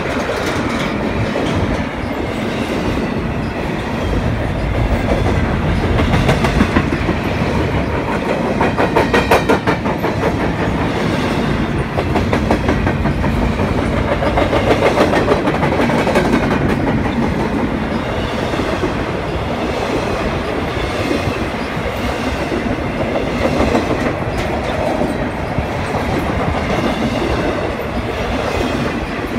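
CN intermodal freight train's double-stack well cars rolling past close by: a steady rumble of steel wheels with rapid clickety-clack over rail joints, densest about a third of the way in.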